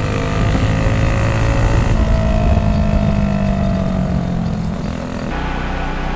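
Engines running steadily, with a drifting engine pitch; the sound changes abruptly about two seconds in and again past five seconds.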